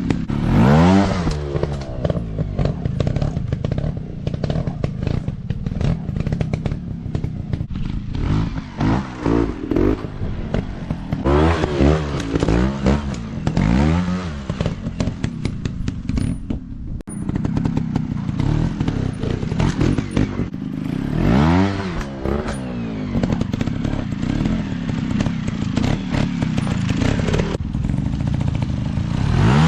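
Dirt bike engines revving up and falling back again and again, with rattling and knocks mixed in. The sound breaks off for an instant about halfway through.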